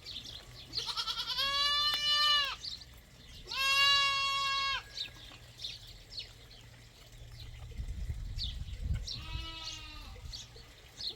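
Goats bleating: three long, wavering calls, the second about three seconds after the first and the third near the end.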